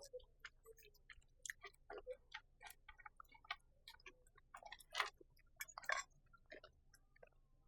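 Close-miked chewing: a run of small, irregular wet clicks and crunches of a mouthful of food, with two louder ones about five and six seconds in.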